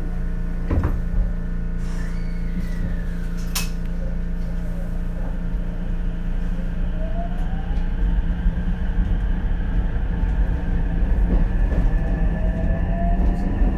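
Ichibata Electric Railway 7000-series electric railcar heard from inside as it pulls away from a station. A steady low hum with a sharp click about four seconds in, then from about six seconds the rising whine of the traction motors as the car accelerates, getting louder.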